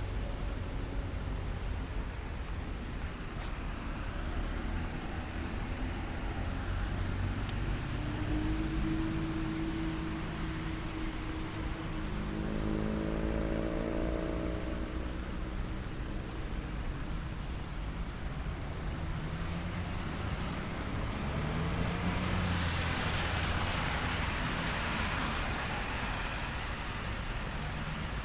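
Traffic on a rain-wet city street over steady rain. A vehicle's engine passes about halfway through, and near the end a car's tyres hiss loudly over the wet road as it goes by.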